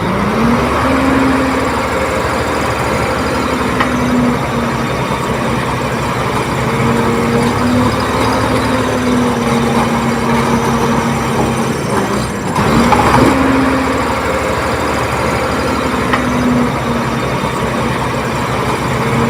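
Komatsu D30P crawler bulldozer's diesel engine running steadily as the machine works, with a brief rise in level a little past halfway.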